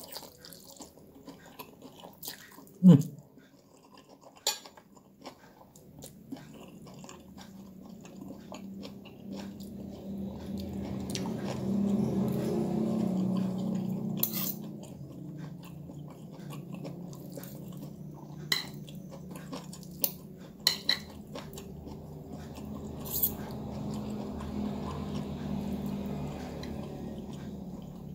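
Chewing of fried noodles, with sharp clicks of a metal fork and spoon against a plate. One brief loud falling sound comes about three seconds in, and a low hum swells in the middle and again near the end.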